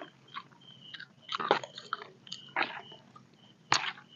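People eating close to the microphone: chewing and biting noises in a few short bursts, the loudest near the end. A faint high chirp repeats in the background.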